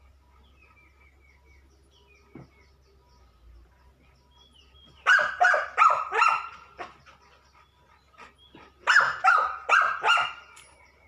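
A dog barking in two bursts of several quick barks, the first about five seconds in and the second near the end.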